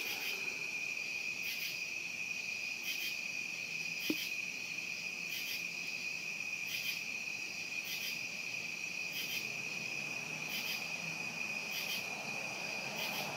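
Night-time insect chorus: a steady high-pitched trill, with a separate short chirp repeating about every second and a half. A faint click comes about four seconds in.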